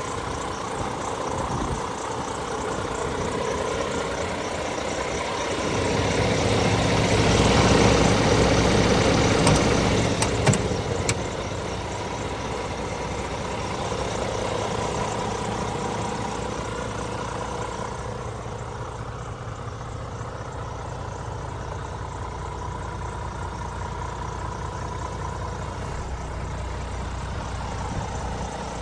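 Scania truck engine idling. It grows louder for several seconds about a fifth of the way in, with two sharp clicks near the end of that stretch, then settles back to a steady low idle.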